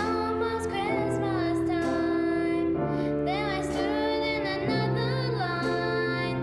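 School choir of young voices singing a slow, tender holiday song to piano accompaniment, with long held notes.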